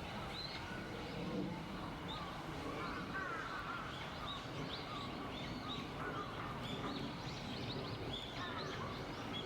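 Wild birds calling: many short, high chirps from several birds, with some longer wavering calls, over a steady background hum.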